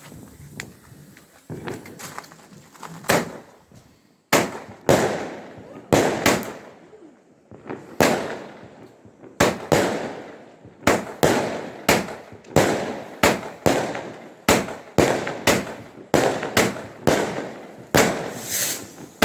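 A firework going off in a rapid series of loud bangs, about two a second, each followed by a short decaying boom. A few quieter pops come first, then the bangs run on steadily from about three seconds in.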